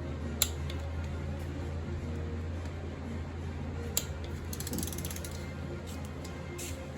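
Hand tools working on metal: two sharp clicks a few seconds apart and a short, fast ratcheting rattle just after the middle, over a steady low hum.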